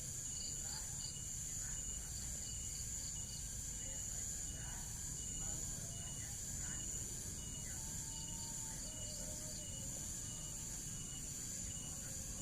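Insects, likely crickets, trilling steadily in the background: a constant high-pitched ringing with a shorter chirp pulsing regularly about twice a second.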